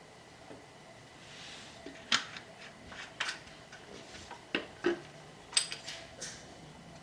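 Small metal parts and hand tools clinking and clicking as they are handled, about half a dozen sharp knocks spread over a few seconds, with a soft brief hiss shortly before the first.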